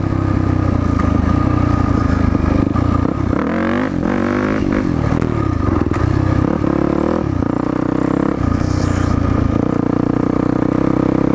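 Yamaha WR450F's single-cylinder four-stroke engine running under the rider's throttle, revving up and dropping back several times, with a clear rising rev about three and a half seconds in. This is the throttle work used to lift the front wheel and hold a wheelie.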